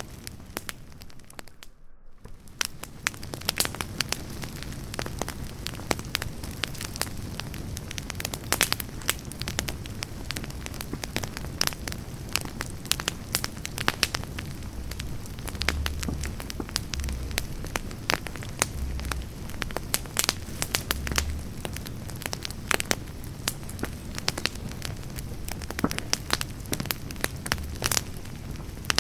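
Wood campfire burning, its firewood crackling and popping in many sharp snaps over a steady low hiss. The sound drops away briefly about two seconds in.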